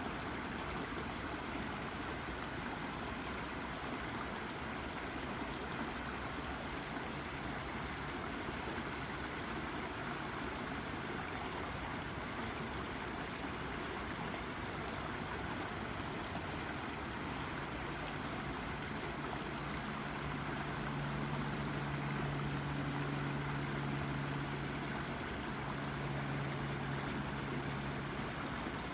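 Brook water babbling and trickling steadily over a rock. From a little past halfway, a low steady drone joins underneath and grows a little louder.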